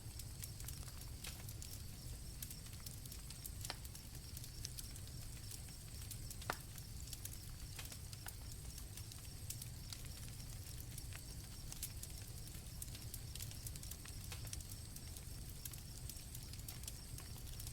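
Night campfire crackling with scattered small pops, one sharper pop about six and a half seconds in, over a low steady rumble of the fire, with crickets chirping as a steady high trill behind it.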